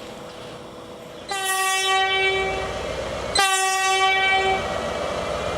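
Train horn sounded twice, two blasts about two seconds apart, each a little over a second long, as a train approaches; the rumble of the oncoming train builds underneath near the end.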